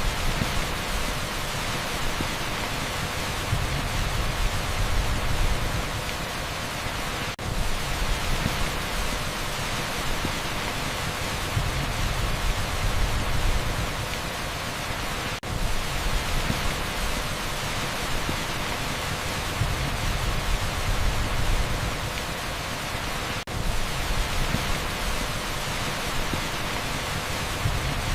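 Heavy downpour rendered as a dense, steady pink-noise hiss, with a low rumble that swells and fades. The sound dips out briefly about every eight seconds.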